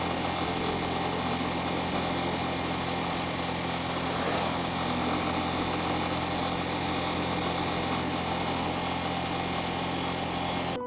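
Motorcycle engine running steadily, its pitch holding even throughout.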